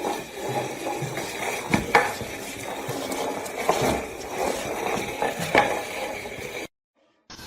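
Scraping and rattling over a steady hiss, with a few sharp clinks about two, four and five and a half seconds in.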